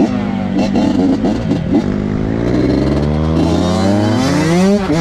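2006 Honda CR85 two-stroke dirt bike engine being ridden. Its pitch drops as it comes off the throttle, then climbs steeply as it revs hard, dipping briefly at the end. A few clattering knocks sound in the first two seconds.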